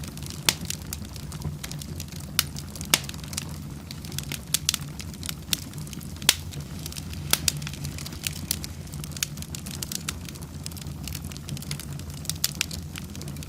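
Wood fire burning in a fireplace: irregular sharp crackles and pops, a few louder ones, over a low steady rumble of the flames.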